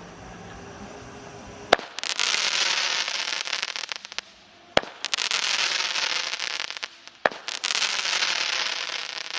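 Sagittarius consumer firework going off: three sharp reports about two and a half seconds apart, each followed by a couple of seconds of dense crackling.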